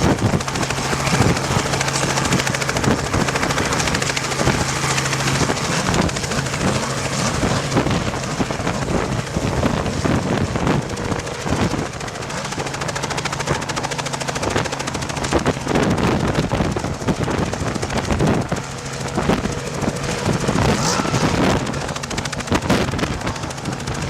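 Helicopter running overhead: rapid rotor chop over a steady engine hum.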